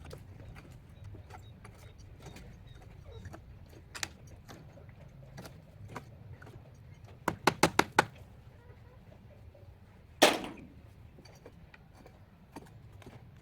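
Scattered light clicks and taps, then a quick run of about six sharp knocks a little past halfway. Near the end comes one heavier knock with a short ring after it.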